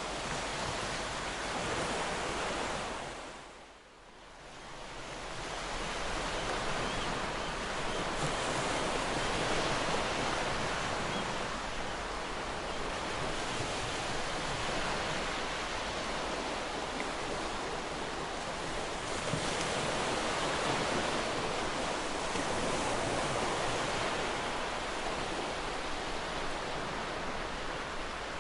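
Ocean surf washing onto a beach in a continuous, steady rush. About four seconds in it fades briefly almost to nothing, then swells back up.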